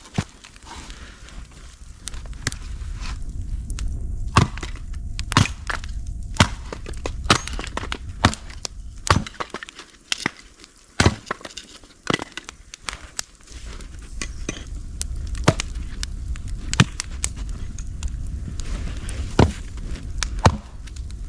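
Wood being chopped and split: a series of sharp, irregular strikes, roughly one a second, with splintering.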